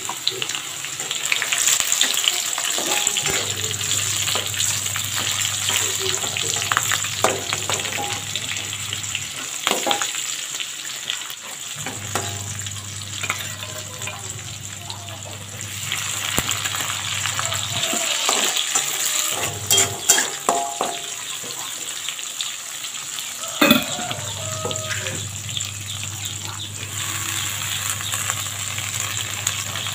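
Sliced garlic, shallots and chilies sizzling in hot oil in an aluminium wok while being stirred, with a few sharp knocks against the pan along the way.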